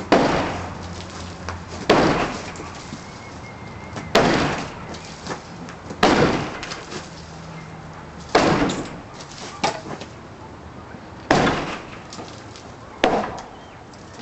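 Hammer blows knocking apart the rotten wood framing of a porch roof: seven heavy strikes, roughly every two seconds. Each strike is followed by a short crackle and rattle of breaking wood and falling debris.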